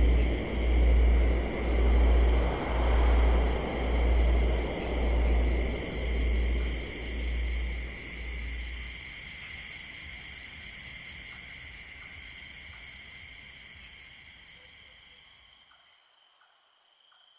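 Meditation soundtrack fading out: a low droning pulse that swells about once a second dies away in the first half. A steady chorus of high cricket-like tones lingers and fades slowly toward the end.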